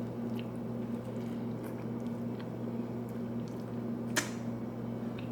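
A person chewing a mouthful of steak pita sandwich, with faint small wet clicks. A steady low hum runs underneath, and there is one sharp click about four seconds in.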